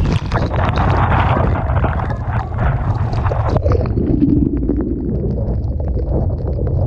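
Typhoon-force wind buffeting the microphone with a heavy, steady low rumble, over the wash of storm-surge waves and spray, with many brief ticks through it.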